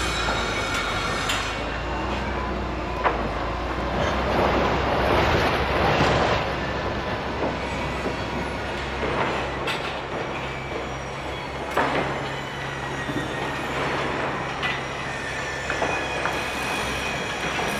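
Heavy construction machinery rumbling steadily, with high metallic squeals and occasional sharp clanks throughout.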